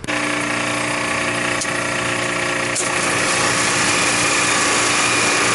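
Refrigeration condensing unit running: the compressor and condenser fan make a loud, steady hum with a hiss. It comes in suddenly and holds level throughout.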